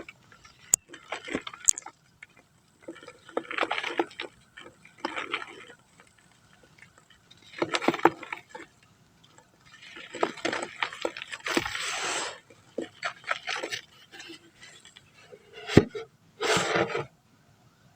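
Dry brown dirt (matti) being crumbled, crunching and crackling in a series of irregular bursts with short gaps between them.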